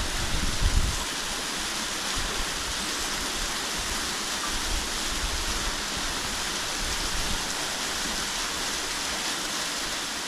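Steady rushing of a mountain creek and its waterfalls, with a few low thumps in the first second.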